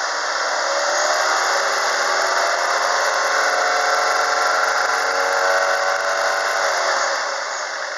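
Kia Cerato's 1.6-litre G4FC DOHC 16-valve four-cylinder engine held at about 3000 rpm, running steadily, then dropping back in revs near the end.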